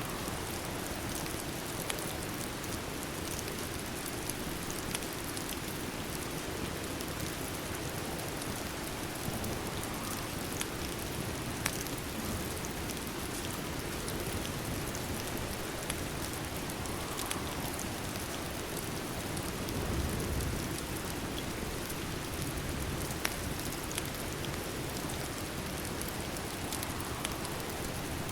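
Steady rain, an even dense hiss, with scattered sharp ticks and a short low rumble about two-thirds of the way in.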